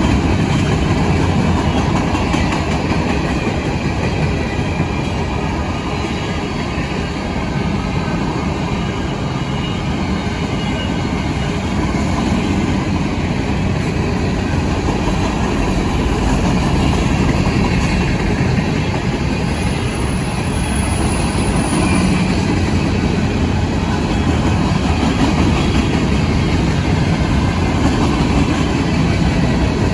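A train rolling past, wheels running steadily over the rails with some clickety-clack.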